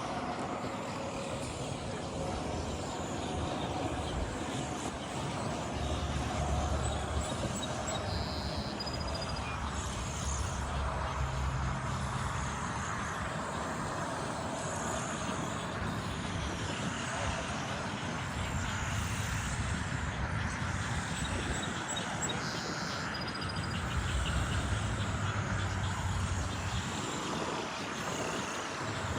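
Steady road traffic noise, with two short high-pitched calls about fourteen seconds apart.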